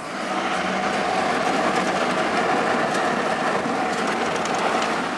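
Dodge Ram one-ton's 5.9 Cummins straight-six turbo diesel run at full throttle and held at high revs, heard from inside the cab, for a burnout in the dirt. The sound comes up quickly at the start, then holds loud and steady.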